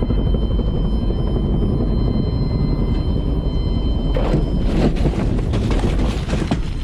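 Aircraft engine and rotor running with a loud, steady low rumble. A rough stretch of crackling noise comes in about two-thirds of the way through.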